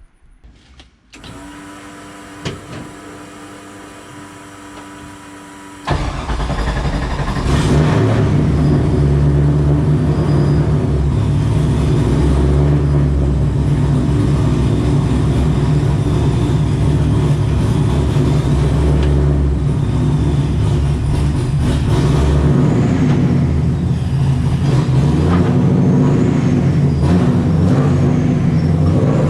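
Supercharged Nissan 240SX racecar engine on a low-rev first drive: a quieter steady hum for the first few seconds, then the engine suddenly much louder from about six seconds in, running and pulling continuously, with a high whine rising and falling with the revs in the second half.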